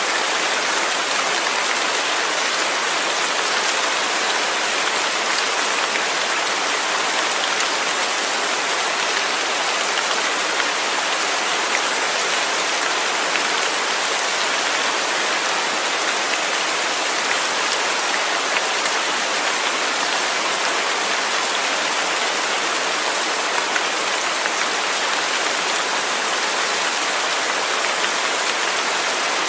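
Steady, even rain falling, a continuous hiss of drops with no thunder or other events.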